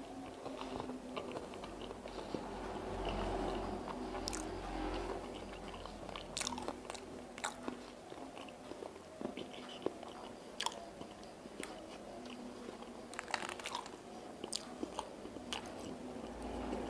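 A person chewing a mouthful of chicken noodles and meatballs, with scattered wet mouth clicks and smacks throughout.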